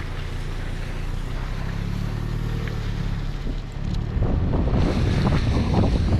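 Mini driving on a snowy road: a steady low road rumble, joined about four seconds in by louder rushing, crackling noise like wind on the microphone.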